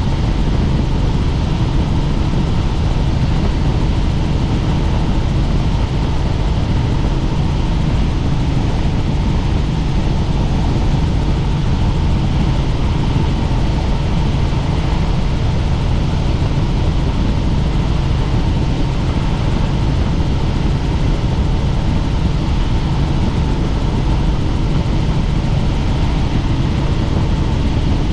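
Helicopter in flight: steady, loud engine and rotor noise with a faint, constant whine.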